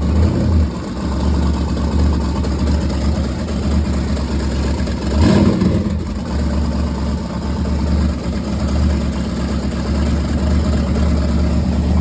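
GM LY2 4.8 L LS V8 running just after its second startup on gasoline, idling steadily with one brief surge about five seconds in. The engine has fresh headers, no radiator or coolant, and no alternator.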